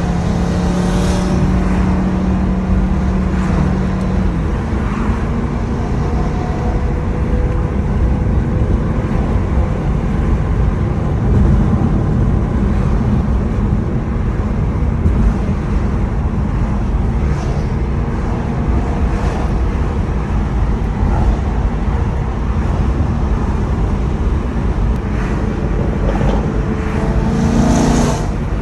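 Car engine and road traffic noise. The engine note holds steady for the first few seconds, and near the end it climbs in pitch as the BMW M2 Competition's twin-turbo straight-six accelerates past.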